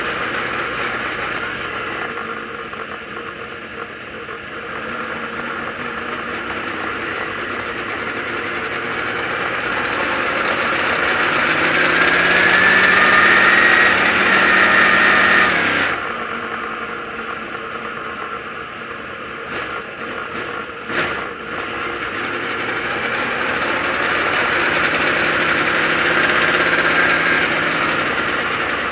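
Dirt late model race car's V8 engine running on the road. Its pitch rises as it accelerates for a few seconds past the middle, then the sound drops away suddenly. A single sharp knock comes a few seconds later.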